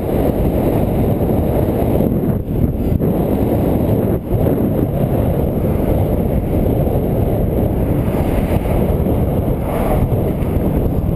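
Wind buffeting the microphone while riding: a loud, steady rumble of noise with no clear engine tone.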